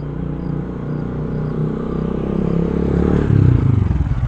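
A vehicle engine sound that runs steadily and grows louder, loudest about three seconds in, then falls back toward a fast, pulsing idle near the end.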